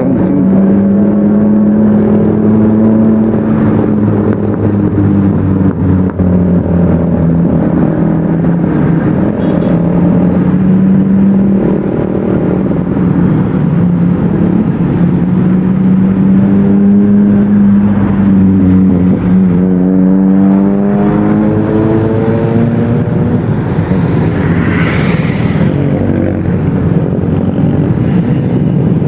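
Motorcycle engine running while riding, its pitch rising and falling with the throttle, then climbing as it accelerates about three quarters of the way through.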